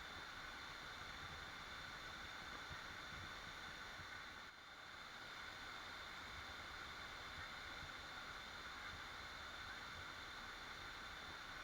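Waterfall rushing steadily, a constant even roar of falling water that dips briefly about halfway through.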